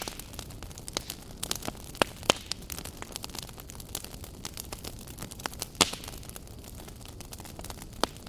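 Wood fire burning in a fireplace, with a steady low rumble of flame and irregular sharp crackles and pops, a few louder snaps standing out.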